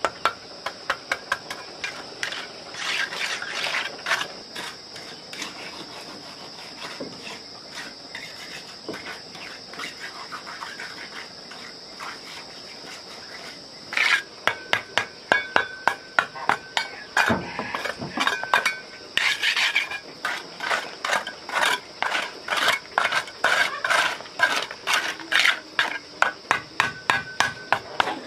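Repeated sharp clinks and knocks of hard objects, a few per second, coming thicker and louder from about halfway through, over a steady high-pitched insect drone.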